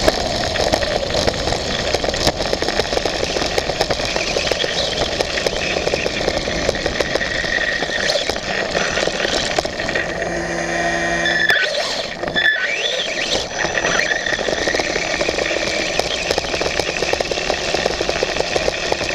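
A radio-controlled motorbike's motor running continuously, heard from the onboard camera, its pitch rising and falling with speed. The sound changes briefly about ten to twelve seconds in.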